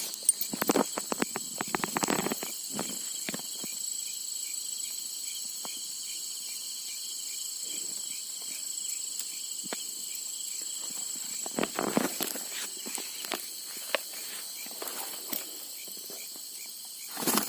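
Night insects chirring steadily at a high pitch. Over them come footsteps and scattered knocks and rustles, thickest in the first few seconds and again about twelve seconds in.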